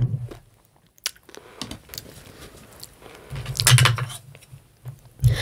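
Eating close to the microphone: small clicks and clinks of utensils and dishes, with a louder noisy burst, a mouthful or a bump near the mic, a little past halfway.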